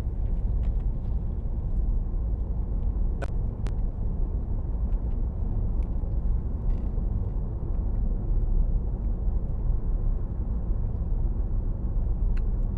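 Car driving at road speed: steady low road and tyre rumble. Two brief ticks a little over three seconds in.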